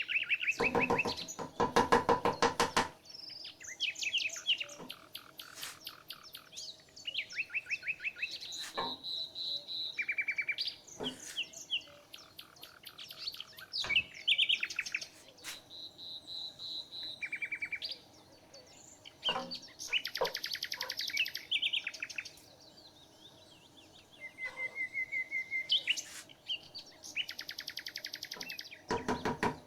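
Several songbirds singing and calling, with quick trills, runs of rapidly repeated chirps and a few held whistled notes one after another. A loud, rapid rattling chatter stands out in the first few seconds and again at the very end.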